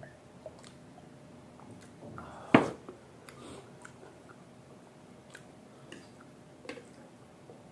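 Close-up chewing and eating sounds, with soft scattered mouth clicks and one sharp clack about two and a half seconds in.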